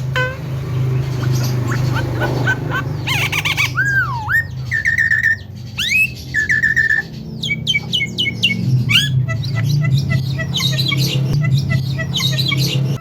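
Javan myna calling in a varied run of squawks and whistles: a swooping whistle, two held notes, then quick strings of short chirps. A steady low hum runs underneath.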